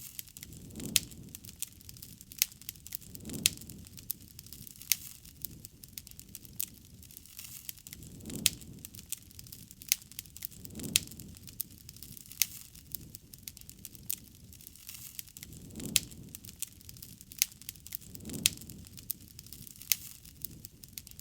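Campfire burning, crackling steadily with frequent sharp pops and snaps. Soft low whooshes come and go every two to three seconds beneath the crackle.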